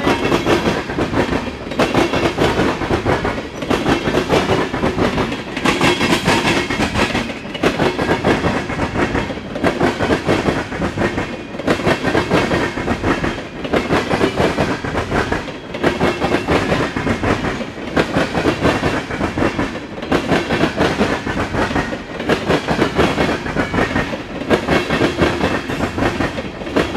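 Norfolk Southern freight train of tank cars rolling past at speed, the steel wheels clicking and clattering over the rail joints. The clatter swells roughly every two seconds as each car's wheel sets pass.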